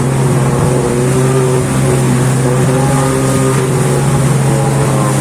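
Taiga snowmobile engine with a reworked muffler running steadily under way, a loud even drone with slight rises and falls in pitch.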